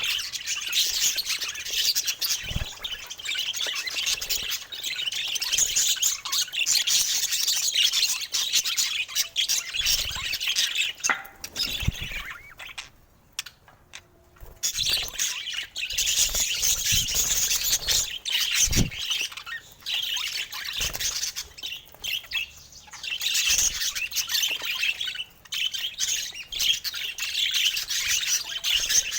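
Budgies chattering and warbling in rapid, high-pitched, ever-changing runs, with a brief pause about halfway through.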